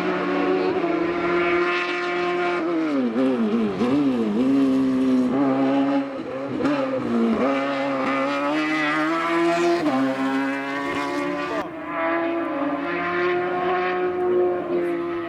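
Hillclimb racing car's engine running hard at high revs. Its pitch dips and swings back up several times a few seconds in, and drops again later with gear changes and throttle lifts, between steady stretches.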